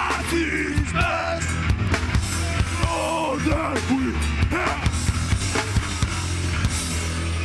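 Hardcore band playing live: pounding drums and distorted guitars with vocals. The drums stop about six seconds in and the guitars ring out as the song ends.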